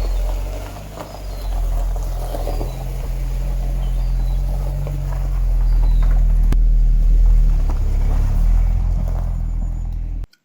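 SEAT Leon Cupra R's 1.8-litre 20-valve turbo four-cylinder running through its original exhaust, which has seen better days. It is a low, steady sound that gets louder past the middle. Birds chirp faintly.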